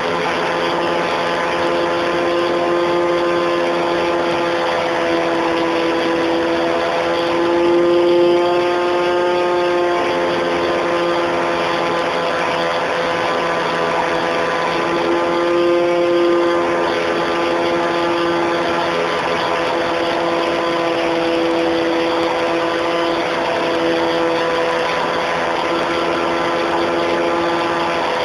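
Electric motor and propeller of an Art-tech RC model Cessna in flight, heard from a camera mounted on the plane: a steady whine over rushing air. It swells and shifts slightly in pitch twice as the throttle changes.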